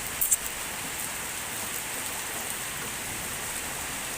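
Steady drizzling rain falling on surfaces, an even hiss. Two or three sharp ticks sound about a quarter second in.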